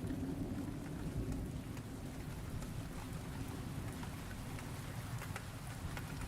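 Thunderstorm ambience: steady rain falling, with scattered single drops heard as light ticks over a continuous low rumble of thunder.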